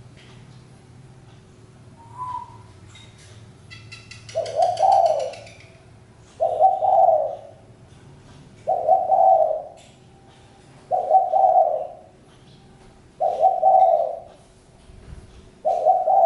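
Spotted dove cooing: a low coo phrase repeated six times, about two seconds apart, starting about four seconds in. A brief high chirping from a small bird overlaps the first coo.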